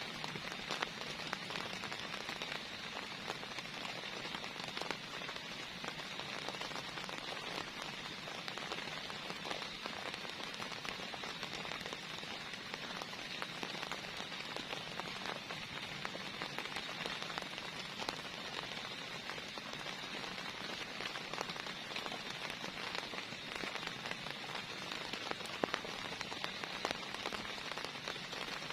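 Heavy rain falling steadily, with many individual drops ticking sharply on a surface close by.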